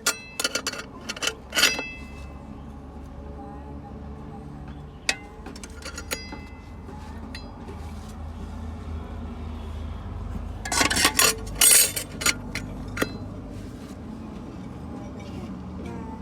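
Steel transmission parts clinking and ringing against each other as they are handled and fitted, in scattered knocks with a busy cluster about two-thirds of the way through, over a low steady hum.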